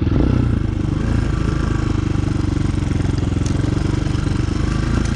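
Chinese 250 cc dirt bike engine running steadily, with no strong revving.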